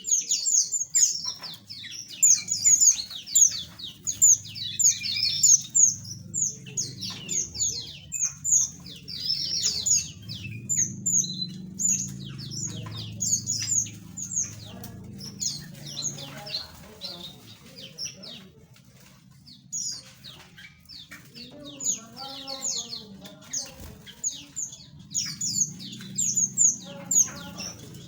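Small aviary birds chirping and twittering in quick, high, down-sweeping notes, densely at the start and the end and more thinly in the middle, over a steady low hum.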